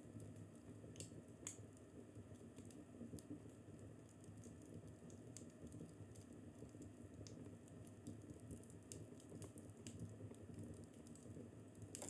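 Wood fire crackling faintly in a fireplace: scattered sharp pops and ticks, a few a second at most, over a low steady rumble.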